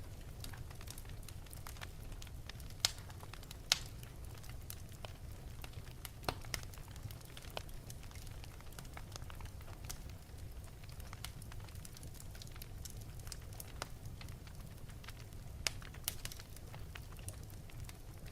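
Fire crackling in an open fireplace: a steady stream of small crackles over a low rumble, with a few sharper, louder pops.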